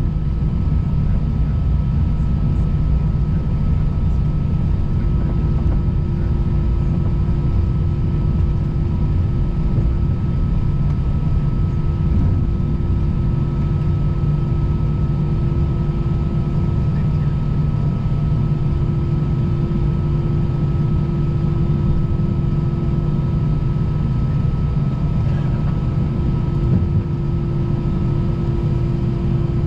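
Airbus A320 cabin noise with the engines at idle during taxi: a steady low rumble with a few constant whining hums above it, unchanging throughout.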